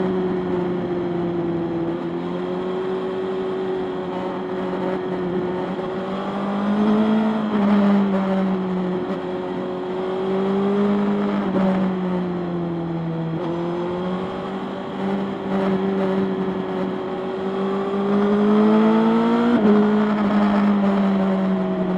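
Motorcycle engine running under way, its revs slowly rising and falling, with a sudden drop in pitch after a rise about 19 seconds in, as it shifts up a gear.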